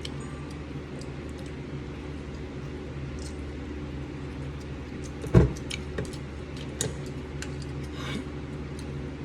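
A steady low hum with scattered small clicks and clinks, and one loud knock about five seconds in.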